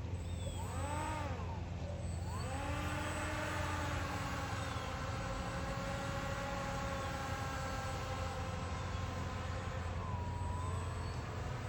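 Electric motor and propeller of a radio-controlled boat whining with the throttle. The pitch swells up and back down once, then climbs and holds fairly steady, with a brief dip near the end, over a steady low rumble.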